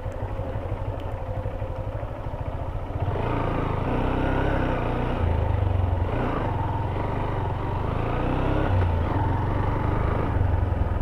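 Honda CB Hornet 160R motorcycle's single-cylinder engine running while being ridden, getting louder about three seconds in.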